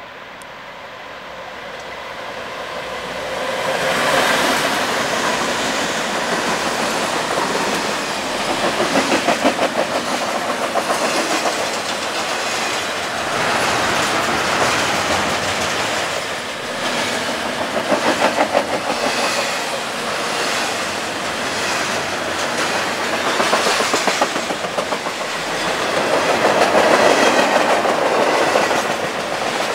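Fast BNSF double-stack intermodal train passing close by. Its lead GE Dash-9 diesel locomotives approach and go by, the noise building to a peak about four seconds in. Then the container well cars roll past, wheels clattering in repeated bursts over the rail joints.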